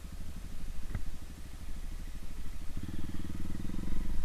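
Honda CRF230 dirt bike's single-cylinder four-stroke engine idling, then revved up a little under three seconds in and held at higher revs. A short click about a second in.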